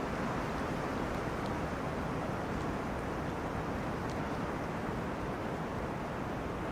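Wind rushing through tree crowns in a steady, even wash of noise without gusts or breaks.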